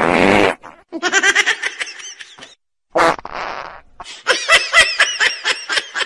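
A run of separate laughing sound-effect clips cut one after another. It opens with a short rasping burst, then a laugh, a brief burst about three seconds in, and rapid, pulsing laughter from about four seconds on.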